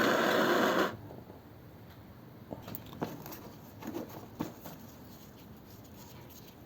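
Gas blowtorch flame hissing as it heats a copper drain-plug washer to anneal it, shut off abruptly about a second in; then a few faint clicks and taps.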